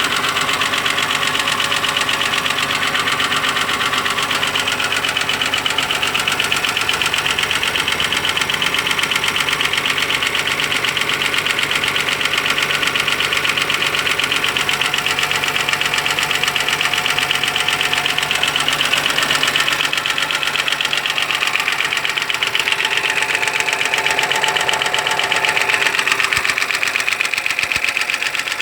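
Audi 2.8 FSI V6 engine running steadily with a fast, even knock.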